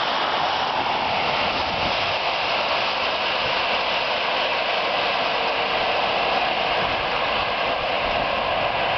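Steady rushing noise of a fast freight train's grain wagons passing close by, even in level with no distinct wheel clicks.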